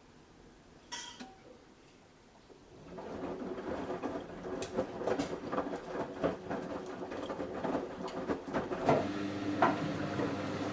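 Samsung Eco Bubble washing machine during a cotton wash: after a quiet pause, the drum starts turning about three seconds in and tumbles the wet load with a run of clicks and rattles, and a steady motor hum sets in near the end.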